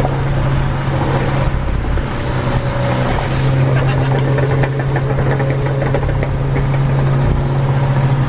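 Nissan 350Z's V6 engine and exhaust droning at a steady cruise, with road noise.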